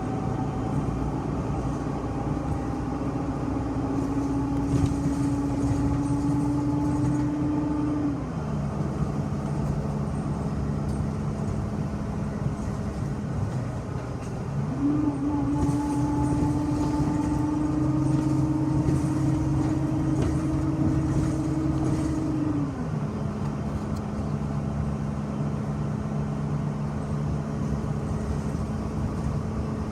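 City bus heard from inside the cabin while driving: a steady rumble under an engine and drivetrain tone that climbs slowly as the bus gathers speed, then drops suddenly as it shifts up, twice.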